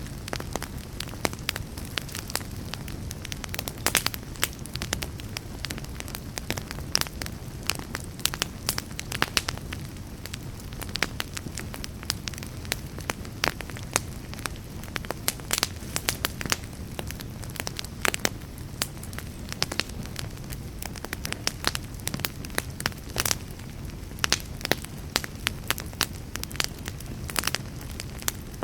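Wood fire burning in a fireplace: a steady low rumble of flames with frequent irregular crackles and pops of burning logs.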